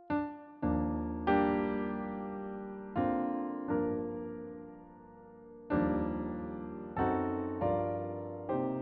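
Slow solo piano music: chords with low bass notes struck every second or two, each left to ring and fade before the next.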